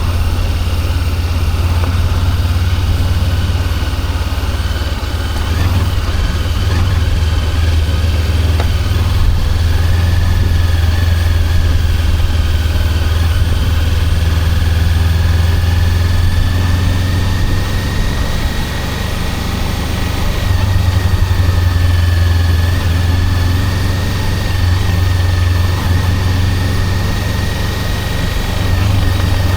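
Honda CB400X's parallel-twin engine running steadily, heard close up from the rider's chest.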